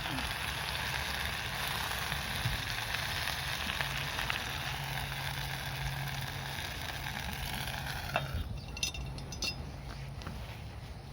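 Steady sizzling in a Lodge cast iron skillet over a fire pit, cutting off suddenly about eight seconds in, followed by a few light clicks.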